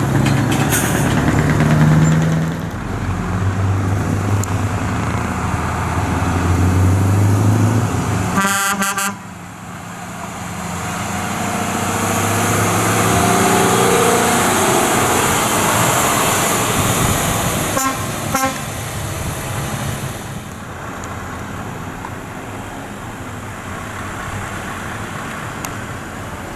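Lorry diesel engines running as the trucks move, their pitch stepping up and down with the revs. The sound breaks off suddenly about nine seconds in and is followed by more engine noise with a few rising whines.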